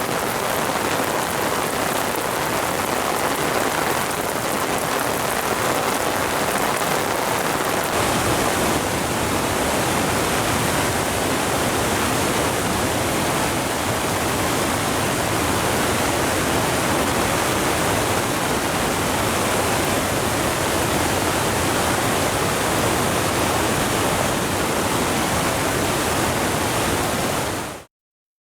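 Steady rushing noise of the flood-swollen Sendai River pouring over Sogi Falls as a muddy torrent after extreme rainfall. It fills the low end more heavily after about eight seconds and fades out quickly near the end.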